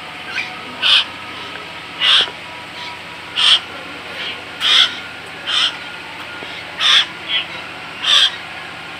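A bird calling over and over, short loud calls about once a second, some with a fainter call between them.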